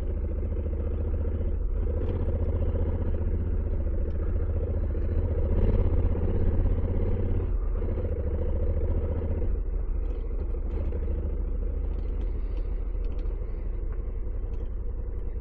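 Motorcycle engine running while riding, louder for a couple of seconds around the middle, then dropping back twice, with a few light ticks in the second half.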